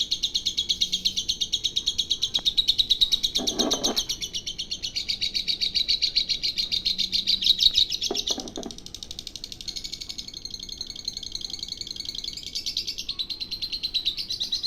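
Recorded bird song played from a Sonic Master birdsong training player (masteran for white-rumped shamas): a fast, continuous chattering of high chirps, about ten a second, shifting in pitch every few seconds. Two short low rustles come through about three and eight seconds in.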